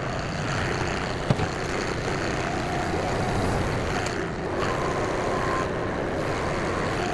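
A motor vehicle or machine engine running steadily, with a single sharp knock about a second in.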